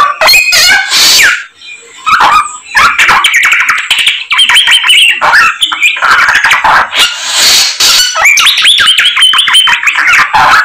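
Caged songbird singing loudly and without a break: a rapid string of chirps, trills and quick whistled slides, packed with mimicked calls of other birds.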